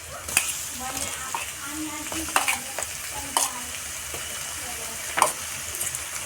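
Marinated prawns sizzling in hot mustard oil in a kadai with fried onions, while a spatula stirs them, scraping and knocking sharply against the pan four or five times.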